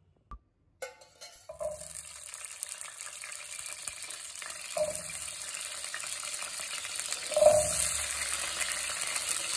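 Whole small shallots sizzling in hot oil in a pan. After a quiet first second the sizzle starts and keeps building, with three louder splashes as more shallots are dropped in. The last splash, near the end, is the loudest.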